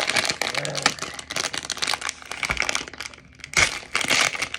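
Crinkling and rustling of a blind-bag toy package being torn open and handled: a dense crackle of many small clicks, with louder bursts a little before the end.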